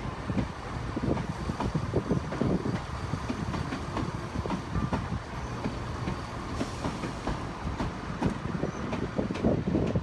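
Southern multiple-unit passenger train running along a station platform: a steady low rumble with irregular clicking and clacking of wheels over the rail joints.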